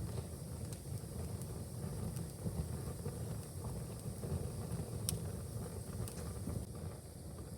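Wood fire in a fireplace burning with a steady low rumble and scattered sharp crackles, the sharpest about five seconds in.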